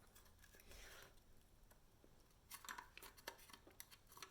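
Faint plastic clicks and rustling as a dishwasher's control board is fitted back into its plastic housing, with a cluster of small clicks about two and a half seconds in.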